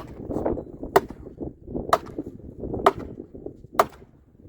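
A manual post pounder driving a fence post, striking the post top about once a second, five sharp blows in a row.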